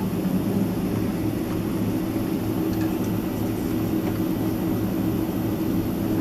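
Steady cabin noise inside a Boeing 767-300ER airliner: a constant low drone with a few unchanging humming tones.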